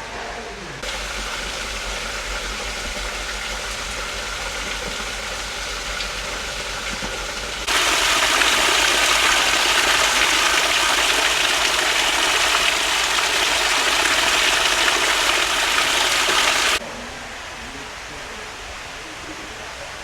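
Steady rushing noise like running water. It becomes much louder about eight seconds in and drops back suddenly about seventeen seconds in.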